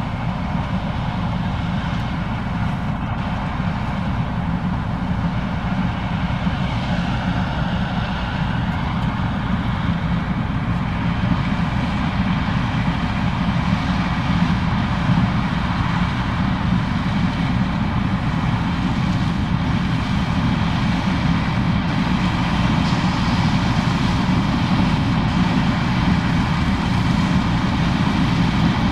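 Case IH 2366 combine harvester running steadily while harvesting corn, with a constant low engine and machinery noise that grows slightly louder toward the end.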